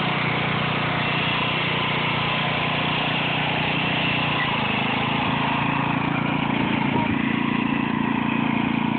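Tractor engine running steadily, its pitch rising a little about five or six seconds in.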